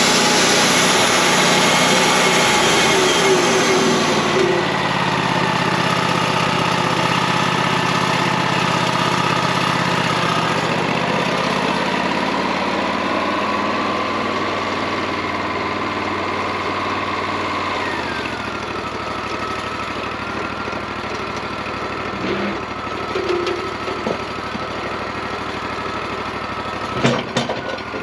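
Wood-Mizer LT40 portable bandsaw mill running, with a brighter hiss for the first few seconds that then drops away. About two-thirds of the way through the machine's pitch falls and then holds steady, and a few knocks come near the end.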